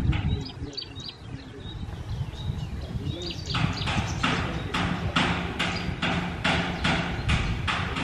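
A few short, high chirps from a small bird in the first second and again around three seconds in, then a steady run of rhythmic swishing strokes, about two a second, from about three and a half seconds in.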